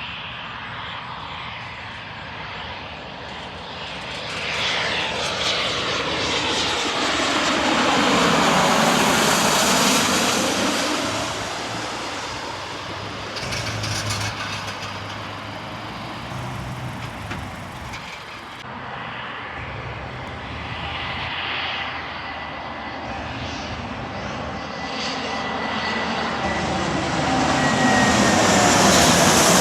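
Airplanes passing overhead: the engine noise swells to a peak about a third of the way in and fades, then a second aircraft grows louder toward the end. A high steady whine sinks slightly in pitch as it approaches.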